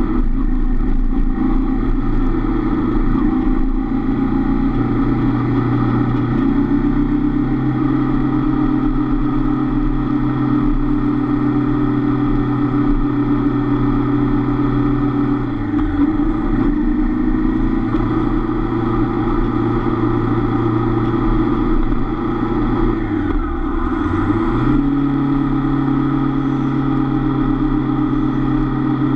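Honda CB500F parallel-twin engine running at steady cruising revs, heard from on the bike. The revs dip briefly and climb back twice: once about halfway through and more deeply about three quarters of the way in.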